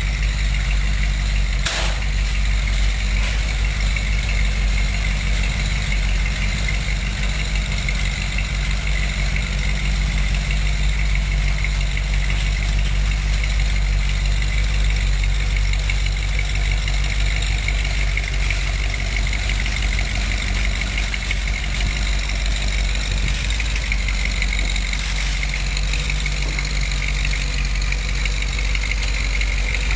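A vehicle engine idling steadily, with one brief knock about two seconds in.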